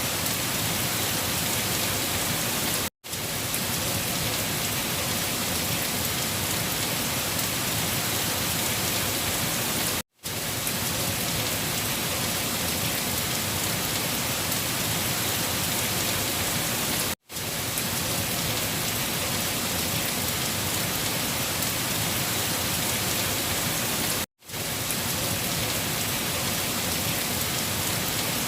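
Steady rain hiss with no single drops standing out. It cuts out for a split second four times, about every seven seconds, as if a short recording were looped.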